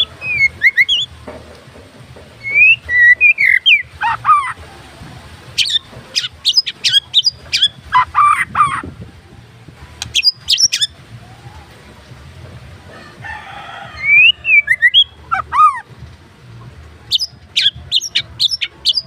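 White-rumped shama (murai batu) singing in a string of varied phrases: clear whistled slurs that rise and fall, mixed with quick runs of sharp, chattering notes, with short pauses between bursts. A faint low hum runs underneath.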